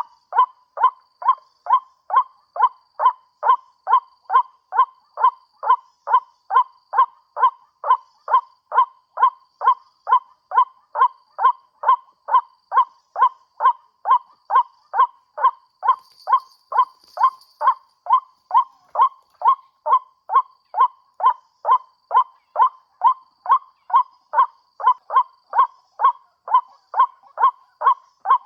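White-breasted waterhen call played on a loop from a bird-lure speaker: one short note repeated with machine-like evenness about twice a second.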